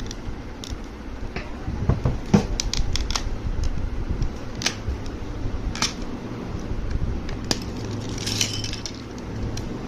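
Scattered small clicks and taps of hands working at a plastic pocket calculator's case while opening it to get at its battery, over a steady low hum.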